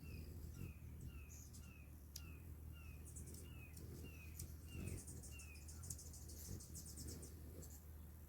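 A bird calling faintly: a run of short falling chirps, about two a second, that stops a little past halfway. A fast, high, ticking trill sounds twice in the background.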